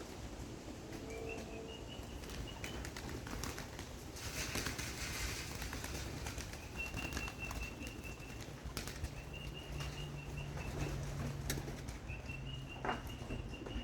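Young homing pigeons' wings flapping as they fly about and land, with a thicker burst of wingbeats about four seconds in. A high, thin note is repeated in quick runs several times over it.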